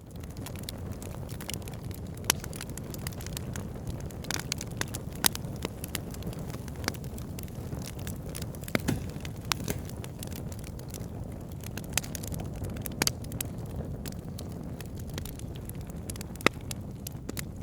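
Wood fire burning in a fireplace: a steady low rumble of flames with irregular crackles and occasional sharper pops.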